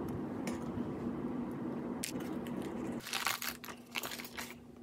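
Crisp baked almond-flour cake layer crackling and crumbling as it is pried up and lifted out of its pan, a cluster of dry crunches starting about three seconds in, over a faint steady hum.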